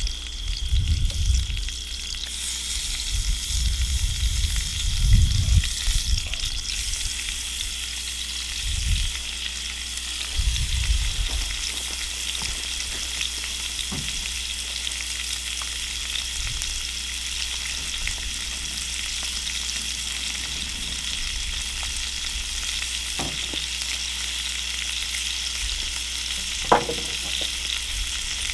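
Chicken fajita meat sizzling steadily in a cast-iron skillet over a campfire, with some low rumbles in the first ten seconds or so and a single sharp click near the end.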